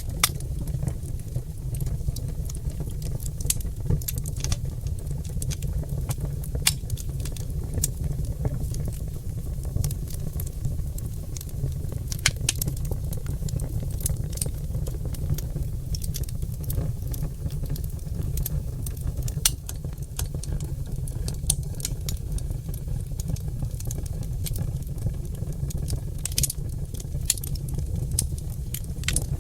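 Oak logs burning in a fireplace, crackling with irregular sharp pops and snaps over a steady low rumble.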